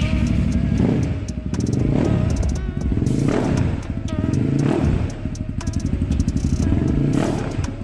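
CX 250S dirt bike's 250cc SOHC liquid-cooled engine running in a sound check, revved in a series of blips that rise and fall every second or so.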